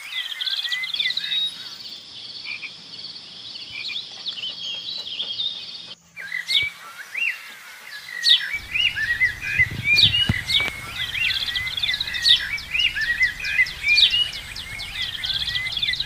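Several small birds chirping and twittering at once, with quick sharp calls and fast trills. The sound drops out for a moment about six seconds in, and a low hum joins from about halfway.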